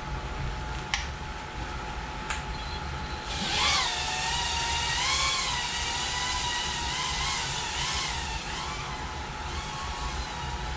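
Tiny whoop micro drone's small motors whining, the pitch wavering up and down with the throttle, from about three seconds in until about eight seconds. Underneath is a steady background hum and rush of air.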